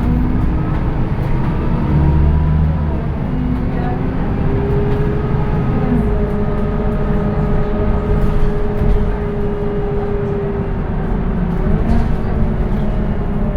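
Scania K230UB city bus's five-cylinder diesel engine and ZF automatic transmission running under way, a heavy low rumble with a steady whine that swells from about five seconds in and fades away near eleven seconds.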